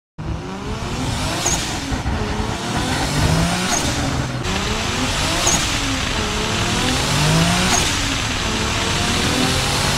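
Nissan Juke-R's twin-turbo V6 accelerating hard, its note climbing in pitch and dropping back at each quick upshift, about four times.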